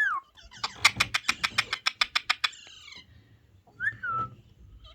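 Indian ringneck parrot giving a fast, rattling chatter of about nine clicks a second that lasts nearly two seconds. Near the end it gives a short whistled call that slides down in pitch and then holds.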